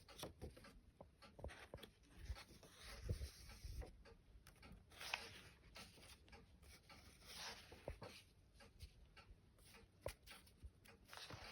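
Paper pages of a children's book being turned and handled, quiet rustles every two or three seconds.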